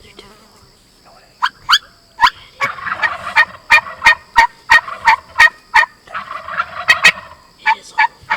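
Wild turkeys calling at close range: a quick run of sharp, loud notes, about three a second, starting just over a second in, with a rough chorus of calling underneath and a short lull near the end.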